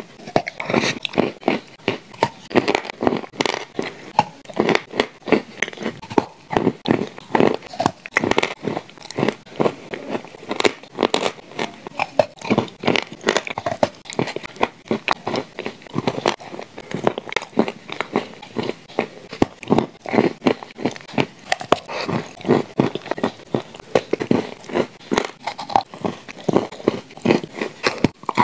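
Chewing and biting into shortbread cookies spread with clay paste and cream: a dense, irregular run of small crunches, several a second.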